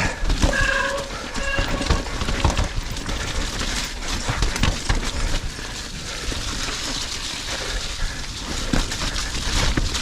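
Mountain bike brakes squealing in short pitched bursts during the first second or two. After that comes a steady rattle and rumble of the bike jolting over rough, rooty trail, with scattered knocks. The brakes are loud because they are cold and wet.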